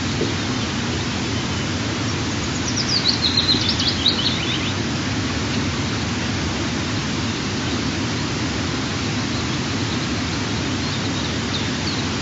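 Steady rushing hiss, with a quick run of about a dozen high bird chirps, stepping down a little in pitch, a few seconds in, and a few faint chirps near the end.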